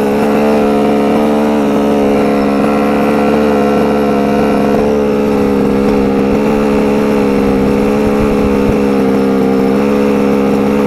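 Losi 5ive-T RC truck's small two-stroke gas engine running at high, nearly constant revs with a buzzing note.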